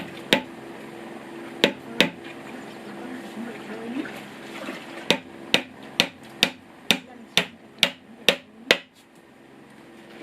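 Hammer blows on wood: a few scattered strikes, then a steady run of about nine blows, roughly two a second, which stops shortly before the end.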